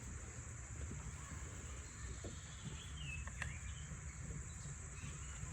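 Steady high-pitched insect chorus, with a few short bird chirps about three seconds in and a low rumble underneath.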